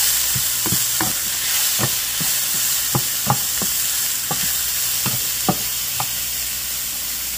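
Chopped onion, garlic, tomato and pepper sizzling in oil in a frying pan with a steady hiss, while a wooden spoon stirs them, scraping and tapping against the pan at irregular moments.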